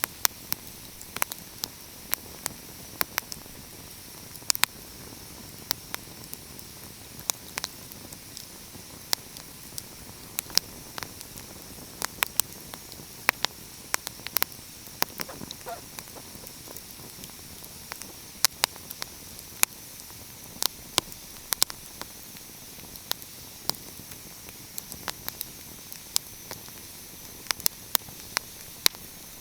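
Wood fire crackling: sharp, irregular pops and snaps over a steady soft hiss.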